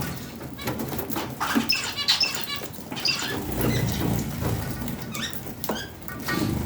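Pet budgerigars chattering: a busy, unbroken stream of short squeaky chirps, clicks and warbles.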